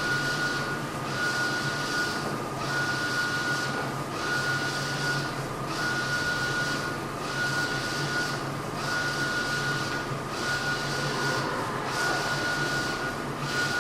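Mutoh Blizzard wide-format printer printing, its print-head carriage running back and forth with a steady whine that breaks off briefly at each reversal, about every second and a half.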